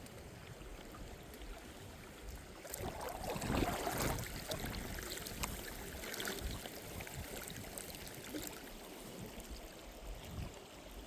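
Water splashing and trickling around a moving kayak, with a louder surge of water noise about three to four seconds in and small scattered clicks and drips.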